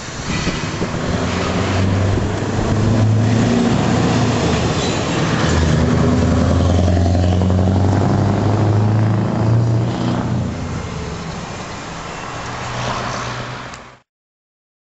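Scania R500 truck's V8 diesel engine running at a steady pitch, growing loud about two seconds in and dropping back about ten seconds in. The sound cuts off abruptly near the end.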